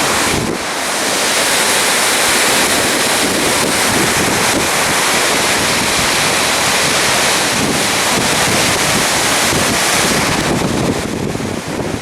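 Wind blowing hard across the microphone: a loud, steady rushing noise that eases near the end.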